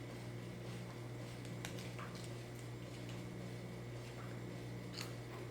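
A child quietly chewing chocolate candy balls, with a few faint mouth clicks over a steady low hum.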